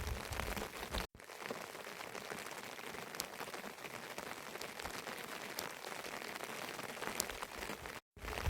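Steady rain falling, an even hiss with scattered sharp drop ticks. The sound cuts out for an instant about a second in and again near the end.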